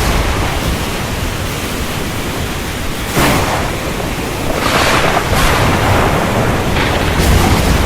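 Steady, loud rain noise with a low rumble beneath, swelling briefly a few times.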